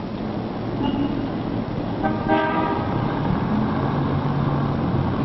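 Street traffic noise with a car horn sounding briefly about two seconds in.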